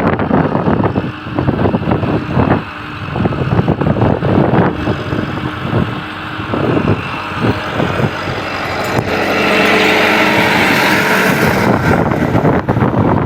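Massey Ferguson 385 tractor's diesel engine running hard, getting louder and harsher from about nine seconds in.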